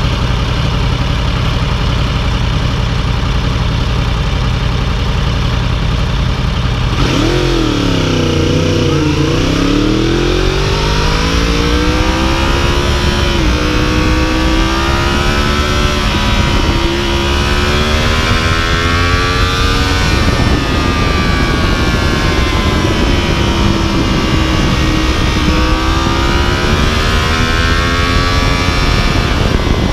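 2015 Yamaha YZF-R1's inline-four engine, heard from the bike itself. It idles steadily for about seven seconds, then pulls away and accelerates, its pitch climbing and dropping back several times as it shifts up through the gears.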